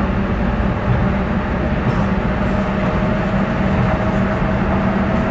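Docklands Light Railway train running, heard from inside the carriage: a steady low rumble of wheels on track, with a faint steady whine above it.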